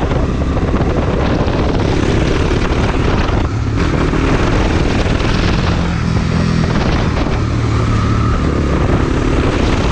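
Bajaj Dominar 400's single-cylinder engine running under way while riding, with wind rushing over the microphone. The sound dips briefly about three and a half seconds in, and the engine note shifts in pitch later on.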